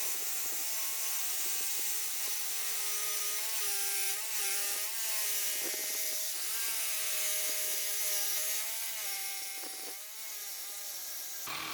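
Power saw cutting through a steel rear fender strut on a Harley-Davidson Softail frame, its motor whine wavering and dipping in pitch as the blade loads up in the cut. Near the end the sound changes abruptly.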